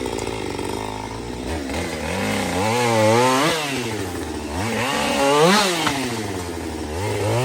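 Chainsaw engine revving hard as it cuts into a tree trunk. It runs low and steady at first, then its pitch climbs and falls in two big surges, and it rises again near the end.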